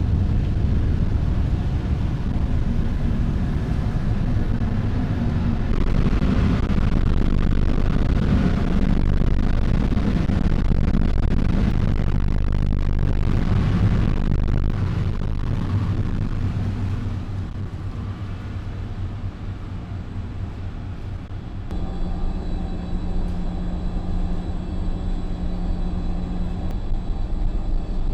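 Steady low drone of a car ferry's engines under way, with a rushing noise over it. About three quarters of the way through the rushing drops away and a steadier hum with several fixed tones takes over.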